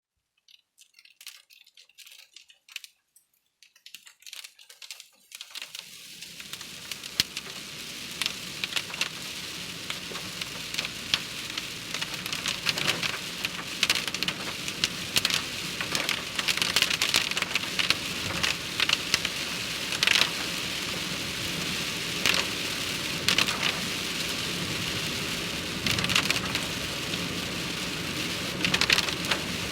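Rain falling, with individual drops tapping sharply on a hard surface: scattered drops at first, building into steady rain about six seconds in.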